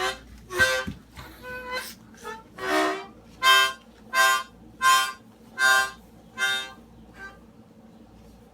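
Harmonica blown in short chord blasts. A few brief notes come first, then about six evenly spaced blasts, a little under one a second, before it stops near the end.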